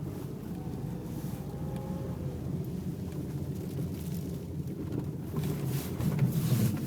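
Car driving through snow, heard from inside the cabin: a steady low rumble of engine and tyres, with wind noise. It grows louder near the end.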